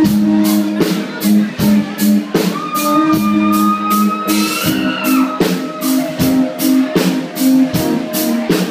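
Live band music: drums keep a steady beat of about three strikes a second under held guitar chords, with a long sustained higher note about three seconds in.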